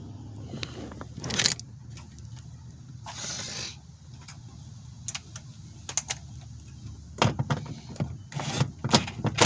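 Scattered clicks, knocks and a brief scrape of hand tools and parts being handled while bolts are removed from a car door.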